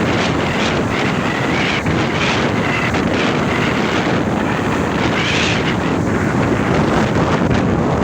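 Strong wind buffeting the microphone, over the steady rushing of sea water, with a few brief swells of hiss.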